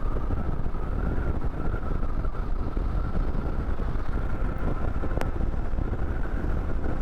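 Royal Enfield Himalayan motorcycle on the move: steady engine and road noise with wind buffeting the microphone.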